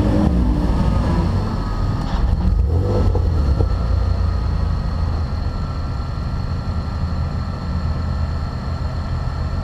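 Car engine running at low, steady revs, a deep rumble easing off slightly after the first few seconds, with a faint steady high whine over it.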